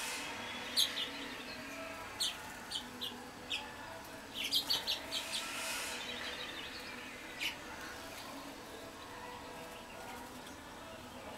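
Small wild songbirds calling with short, sharp, high chip notes, scattered irregularly, with a quick run of them about four and a half seconds in.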